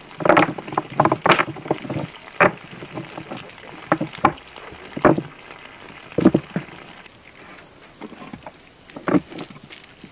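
Irregular splashes and knocks, several in quick succession at the start and then single ones every second or two.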